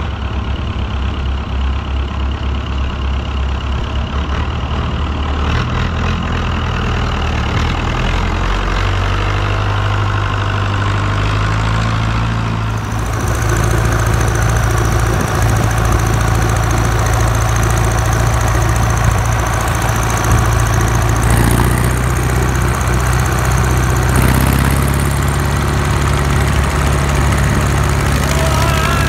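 Engine idling steadily with a knocking note, its pitch stepping up slightly about a third of the way in and the sound changing a little under halfway through.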